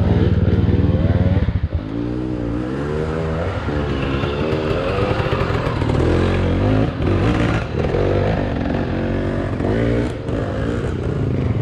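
Enduro dirt bike engine revving up and down over and over as it is ridden over rough ground. A few sharp knocks come through near the middle and later on.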